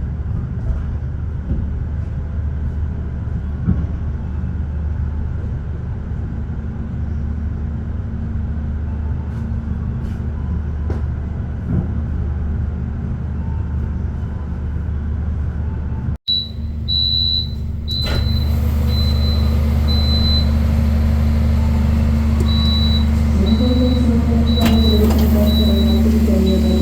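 Steady low drone of an idling diesel train engine at a station. About 16 seconds in it breaks off briefly and comes back louder. After that, an on-and-off high thin tone runs over it, and near the end pitched tones slide downward.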